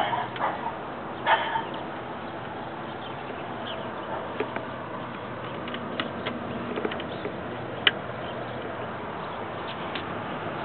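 1994 Chevrolet Cavalier Z24's 3.1-litre V6 idling steadily with the accessory belt removed, running without a whine; the whine came from the old, cracked belt. A couple of short, sharp sounds are heard in the first second or two.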